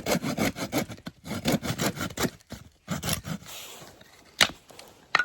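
Rapid back-and-forth scraping strokes on wood, about four or five a second, stopping about three seconds in; a fainter scrape follows, then two sharp knocks near the end.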